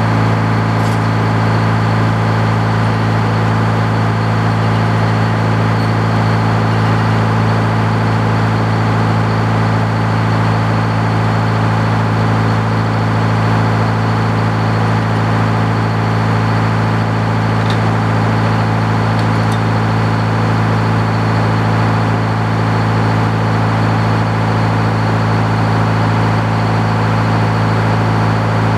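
Antique Frick sawmill running at a steady, unchanging speed, a constant machine hum with no load changes.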